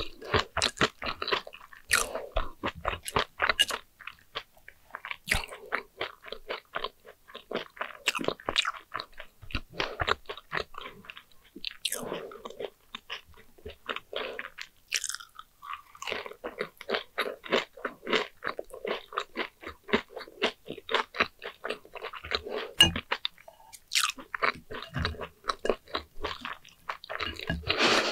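Close-up chewing and crunching of sugar-coated fried sweet potato slices, bite after bite, with a short pause about halfway through.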